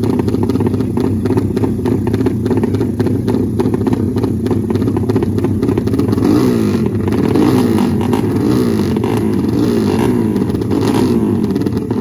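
Drag-race motorcycle engine running loudly at a fast, clattery idle, then from about halfway through revved up and down in quick repeated throttle blips.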